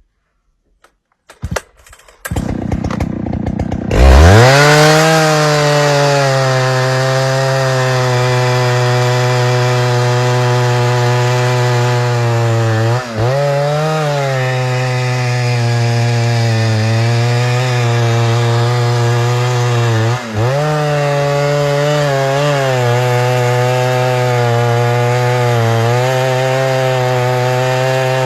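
Two-stroke chainsaw: a few clicks, then the engine sputters at a low idle before being throttled up sharply to full revs at about four seconds. It then runs at a nearly steady high pitch, with two brief dips in revs partway through.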